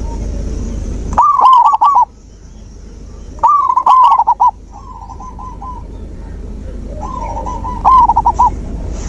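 Zebra doves (perkutut) cooing: three loud phrases of quick rolling notes, with fainter coo phrases between them. A steady high hiss runs underneath.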